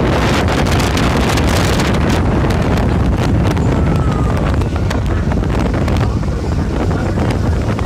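Wind buffeting the microphone aboard a moving tour boat, over a steady low rush from the boat underway; the gusting is strongest in the first couple of seconds and eases a little after about five seconds.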